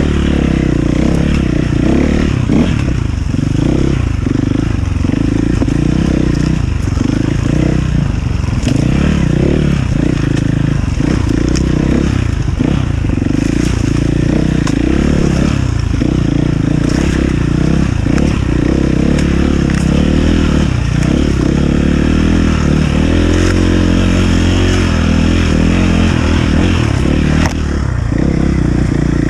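Enduro motorcycle engine running loud and continuously, its pitch rising and falling as the throttle is worked, with some clatter.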